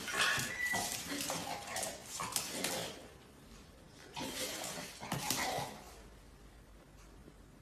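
Dog making excited whining and yipping sounds, mixed with scattered clicks and clatters. The sounds come in two spells, the first over the opening three seconds and the second about four seconds in, with lulls after each.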